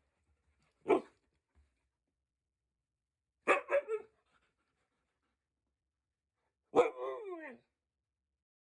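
Dog barking indoors: one bark about a second in, a quick run of three barks around three and a half seconds, and a longer bark near the end that slides down in pitch.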